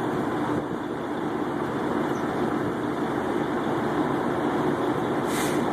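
Truck engine idling steadily with a constant low hum, and a short hiss about five seconds in.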